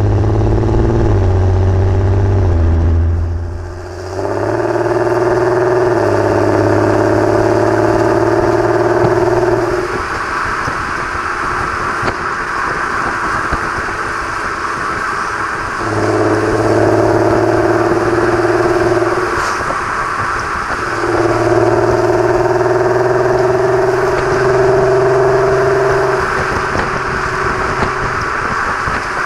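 3.6 VR6 engine running through a Varex valved exhaust while the car is driven, holding a steady engine note that gives way several times to plainer road noise, then comes back.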